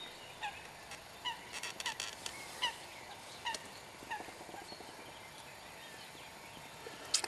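A bird giving short, repeated calls, about one a second and fading after the first few seconds, over a faint steady hiss; a sharp click near the end.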